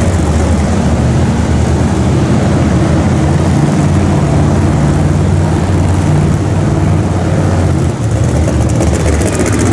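Monster truck engine running loud and steady at a low, rumbling pitch that wavers slightly.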